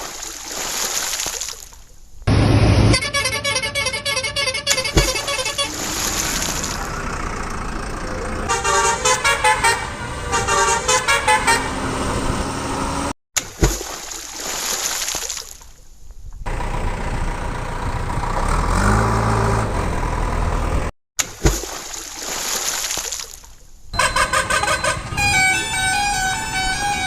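A string of edited vehicle-horn sound effects, with engine-like rumble under them. The segments are cut off abruptly one after another, and a patterned, tune-like horn plays near the end.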